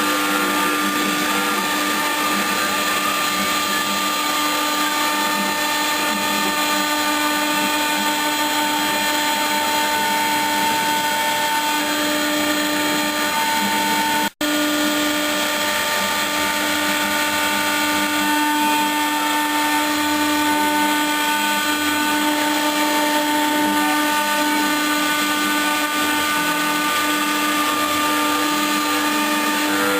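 Router spindle of a homemade CNC milling machine running at a steady speed: a constant whine over a rough noise, cutting out for an instant about halfway through.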